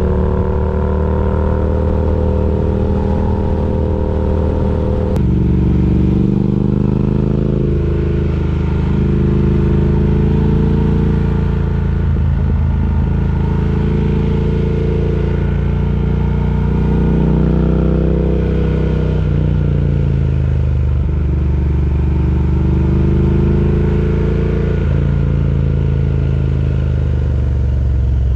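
Triumph Speed Twin parallel-twin engine running through its exhaust while riding. The note holds steady for about five seconds, then changes suddenly and rises and falls in pitch several times as the bike accelerates and shifts gears.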